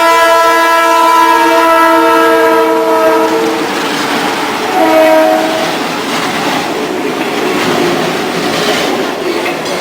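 Philippine National Railways train horn: a multi-note air horn chord held in a long blast that ends about three and a half seconds in, then one short blast. After the horn, the steady rumble and clatter of the train rolling past on the rails.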